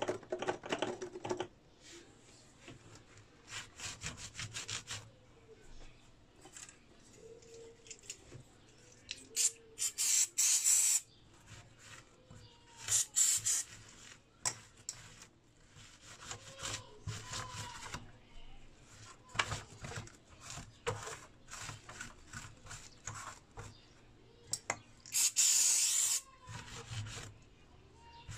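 Rubbing and scrubbing as a soot-blackened inverter circuit board is cleaned, in irregular scratchy strokes, with three louder hissing bursts of a second or two.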